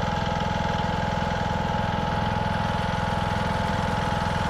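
Lawn tractor's 20-horsepower engine running at a steady speed.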